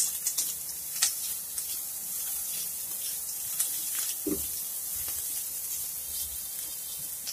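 Chopped onion, garlic, ginger and green chilli sizzling gently in oil in a wok, lightly sautéed rather than browned. A spatula stirs them, scraping and tapping against the pan now and then.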